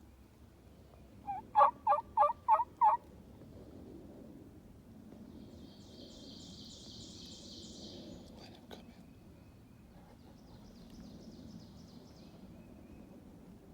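A series of six loud turkey yelps, about three a second, that starts and stops within a couple of seconds. Later come two fainter, high, buzzy trills from a small songbird.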